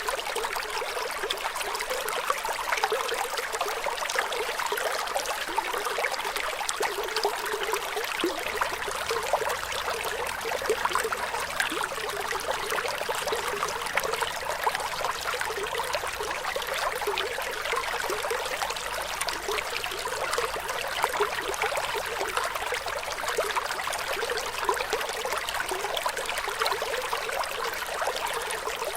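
Running water flowing and trickling steadily, a dense fine splashing and bubbling with little low rumble.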